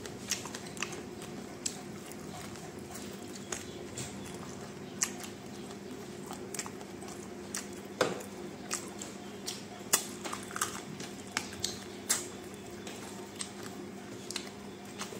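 Close-up chewing of fried chicken fingers with the mouth closed: irregular wet smacks and clicks over a steady low hum.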